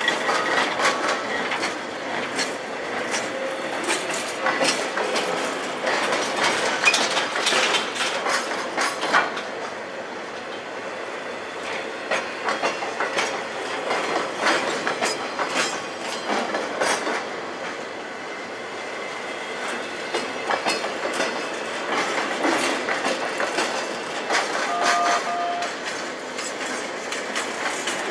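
A long string of loaded railroad flatcars rolling slowly past, their wheels clicking and clacking over the rail joints with a continuous rumble and rattle.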